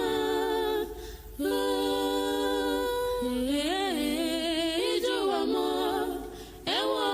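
Wordless a cappella singing: a voice holding long notes that waver and slide in pitch, breaking off briefly about a second in and again near the end.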